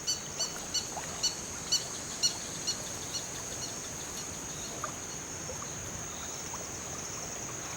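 A bird giving alarm calls: a run of short, sharp, high notes about two a second that fade out after about three seconds, over a steady high hiss.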